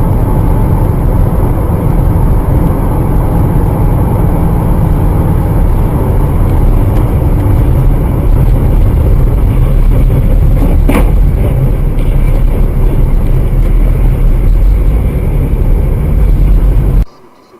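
Loud, steady rumble of road and wind noise from a moving vehicle, picked up by a dashcam microphone, with one brief click about eleven seconds in. It cuts off suddenly near the end.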